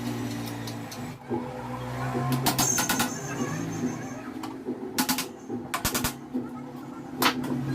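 Clicks and knocks of table-fan parts being handled and fitted together during reassembly, a few sharp ones about a third of the way in and several more in the second half, over a steady low hum.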